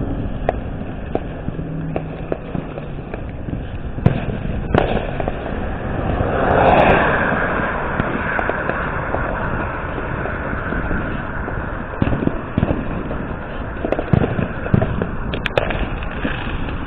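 Consumer fireworks going off around the neighbourhood: scattered sharp pops and bangs over a steady rushing background, with a swelling rush a little past a third of the way in.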